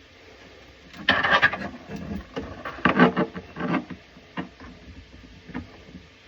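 Tools and parts being handled during a faucet installation: a run of knocks, rubs and scrapes lasting about three seconds, then a few single clicks.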